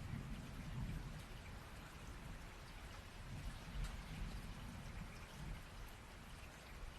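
Steady rain with scattered distinct drop ticks. A low rumble of thunder dies away over the first second, and a fainter low rumble swells and fades around the middle.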